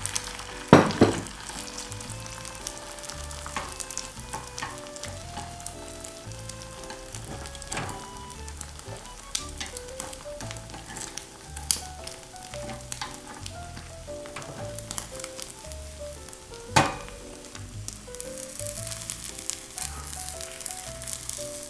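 Egg sizzling in a frying pan for a rolled omelette, with a few sharp knocks of a utensil against the pan, the loudest about a second in and near the end. Background music with a light melody and bass plays throughout.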